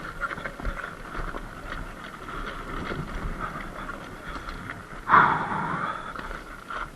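Surron X Light Bee electric dirt bike riding over a rough dirt road: a steady motor whine with knocks and rattles from the bumps. About five seconds in there is a sudden loud jolt whose whine falls away over about a second.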